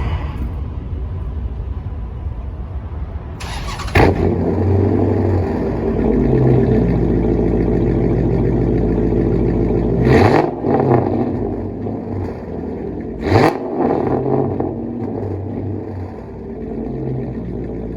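Dodge Charger Hemi V8 running through a straight-piped, catless exhaust: steady idle with loud throttle blips about four, ten and thirteen seconds in, the pitch rising on each.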